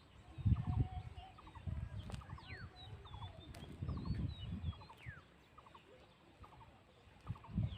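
Birds calling: high whistles that slide downward, and quick clipped chirps in short runs that repeat every half second or so. Irregular low rumbling thumps come and go underneath, the loudest about half a second in and near the end.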